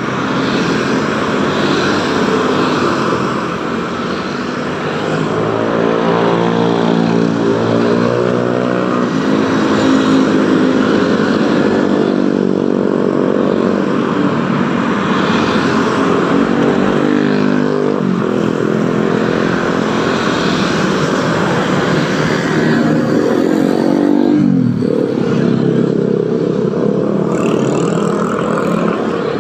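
Heavy road traffic of motorcycles and cars passing steadily, a constant mix of engines and tyre noise with engine notes rising and falling. About 24 seconds in, one engine's pitch drops sharply as a vehicle goes by.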